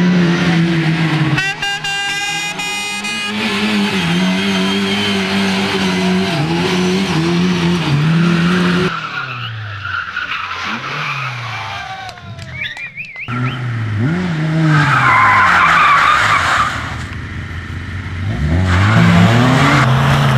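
Rally car engines revving hard, their pitch climbing and dropping again and again as they change gear, in several short shots that cut abruptly one after another.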